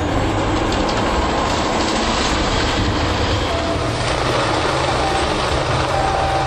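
A heavy machine's engine running steadily under load, with a dense, even rushing noise over a low hum.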